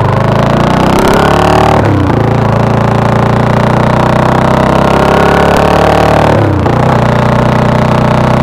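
Suzuki TU250X's single-cylinder motorcycle engine being revved twice, each rev climbing and then falling back sharply, once about two seconds in and again near the end, loud through a free-flowing exhaust.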